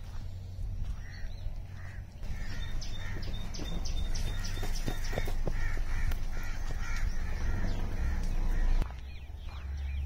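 Birds calling, crows cawing among them: a busy run of repeated calls starts about two seconds in and cuts off suddenly near the end, over a low rumble of wind on the microphone.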